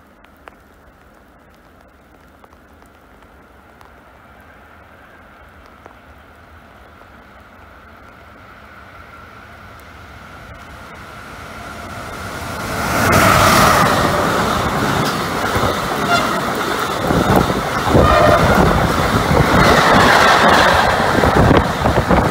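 Electric freight locomotive and its intermodal wagons approaching and passing through at speed: a low hiss swells over several seconds, then about thirteen seconds in the horn sounds and the train arrives with a loud rush and clatter of wheels on the rails.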